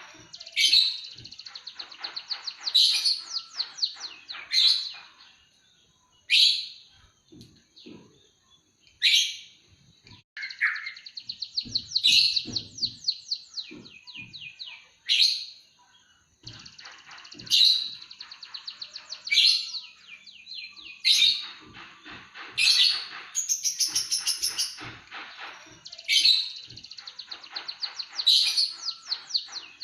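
Emprit kaji (white-headed munia) singing a lively canary-like song. Short phrases of fast, buzzy trills and chirps repeat every second or two over a thin, steady high whistle.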